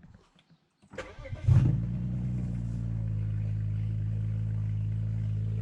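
BMW engine cold start: a short starter crank about a second in, the engine catching with a brief rev flare, then settling into a steady idle. Not too loud for a cold start.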